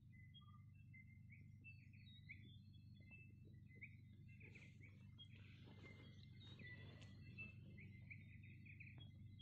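Faint morning birdsong: several birds chirping in short, repeated high notes over a low, steady rumble.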